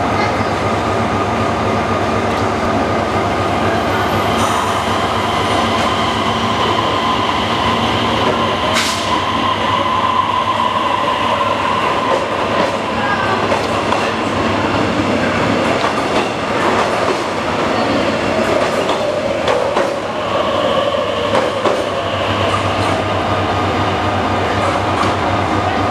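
Korail O-Train diesel multiple-unit departing: its diesel engines run steadily as the train pulls out of the platform and moves past and away. There is one sharp click about nine seconds in.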